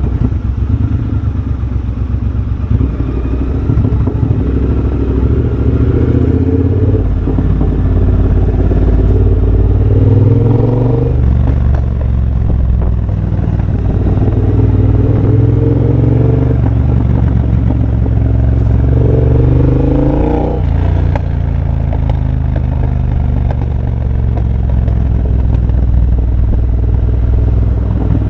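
2023 Triumph Bobber's 1200 cc parallel-twin engine running through a de-catted X-pipe and Motone shorty exhaust while riding. It pulls up through the revs three times, the pitch climbing and then falling back, about ten seconds in and again near twenty seconds.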